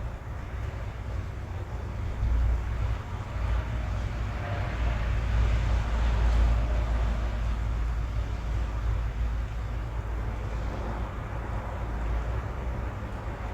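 Rain heard from inside a car cabin over a strong low rumble and hiss, swelling for a few seconds about halfway through and easing off near the end.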